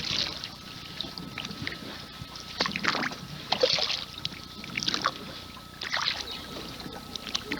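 Canoe paddle strokes splashing and dipping in the river water, an uneven stroke about every one to one and a half seconds, with a faint steady high whine underneath.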